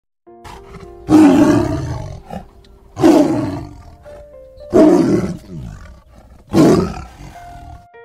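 Tiger roaring four times, about two seconds apart, each roar starting loud and fading over about a second, with soft background music underneath.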